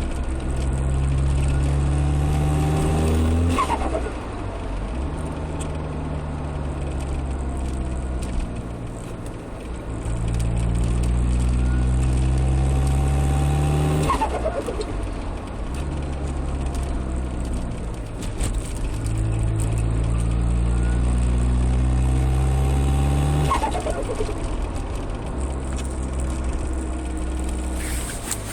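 Peugeot 306 turbo diesel accelerating hard three times, its engine note climbing and a turbo whistle rising with it. Each pull ends in a sudden lift-off followed by a rapid turbo flutter: compressor surge as the throttle closes on boost.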